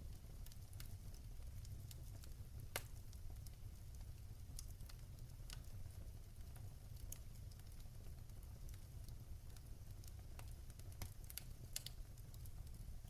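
Wood fire crackling in a fireplace: irregular sharp pops and snaps over a low steady rumble, the loudest pop about three seconds in.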